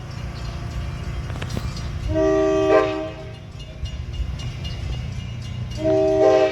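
Locomotive air horn sounding two blasts of a multi-note chord, each about a second long, over the steady low rumble of a moving train.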